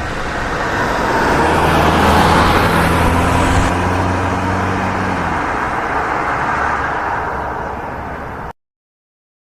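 A road vehicle's engine running as it drives past, with a low engine hum. It grows louder to about two seconds in, then slowly fades before cutting off abruptly near the end.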